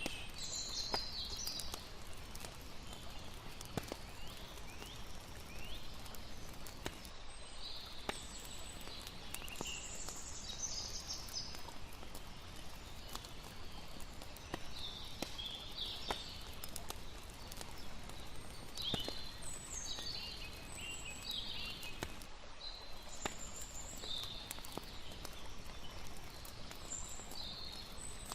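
Layered night ambience: a campfire crackling with scattered sharp pops over a steady wash of flowing water, with irregular high chirping calls from night creatures every second or two.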